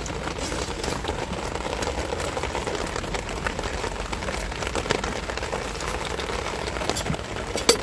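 Heavy rain falling steadily, with many scattered sharp drop hits.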